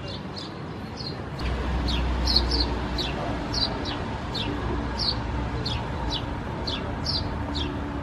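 A bird calling over and over: short, high chirps that fall in pitch, about two a second. A low steady rumble comes in about a second and a half in.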